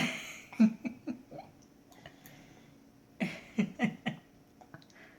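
Short, soft vocal sounds like little laughs or giggles, in two clusters of three or four: one starting right away and one past the middle. A sharp click right at the start.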